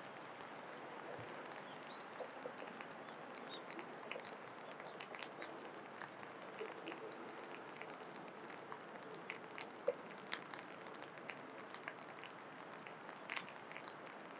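Faint steady outdoor hiss with many small scattered clicks and a few brief bird chirps.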